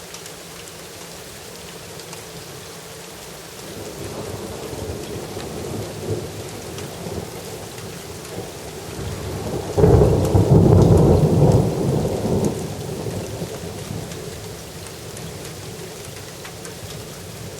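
Steady rain with a roll of thunder. The rumble builds from about three seconds in and breaks into a loud peak about ten seconds in that lasts a couple of seconds, then dies away, leaving the rain.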